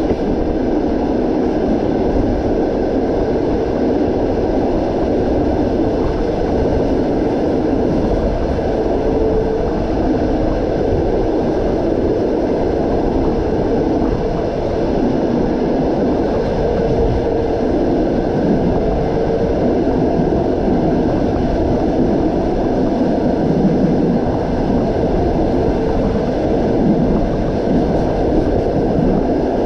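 Passenger train running along the track: a steady rumble of wheels on the rails, heard from aboard the train.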